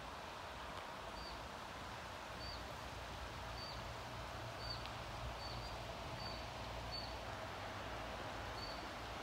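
A small bird repeating a short, high chirp about once a second, over faint, steady outdoor ambience with a low rumble.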